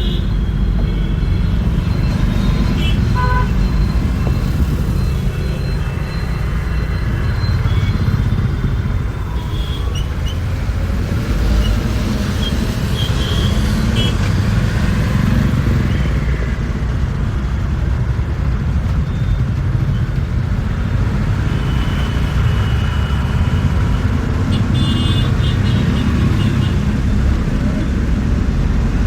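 Steady low rumble of a bus's engine and tyres, heard from inside the moving bus in traffic. Vehicle horns toot briefly at the start, a few times around the middle, and again near the end.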